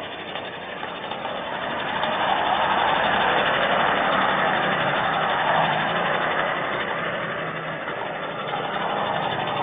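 A motor vehicle going by: a steady hiss with a low engine hum that builds over a few seconds, then eases off.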